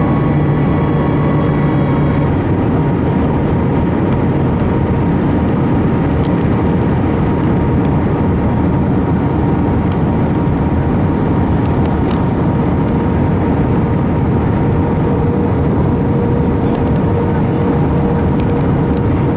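Airbus A320 cabin noise in flight: a steady rush of jet engines and airflow, with a steady whine over it and a lower hum that drops out about two seconds in.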